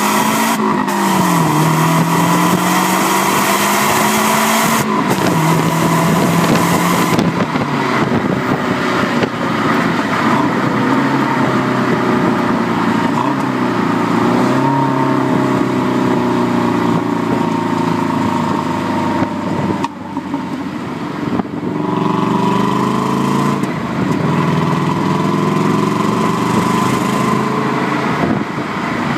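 Subaru Legacy GT-B's stock exhaust, its 2.0-litre twin-turbo flat-four pulling hard with the pitch climbing through the revs, then dropping at each of several gear changes. It is heard from the back of the car, close to the exhaust.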